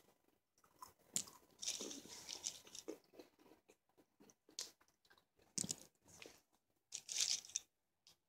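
Pistachios crunching as they are bitten and chewed with bare gums, no teeth. The crunches come in irregular bursts with short quiet gaps, loudest about a second in, around two seconds in and near the end.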